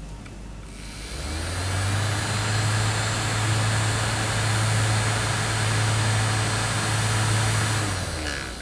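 Small electric fan motor spinning up, running steadily with a low hum and a rushing of air, then winding down near the end.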